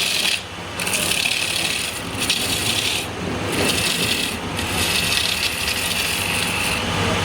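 Turning tool cutting wood on a spinning wood lathe: a loud hissing scrape in several passes of about one to two seconds each, with short breaks between them, over the lathe's steady low running.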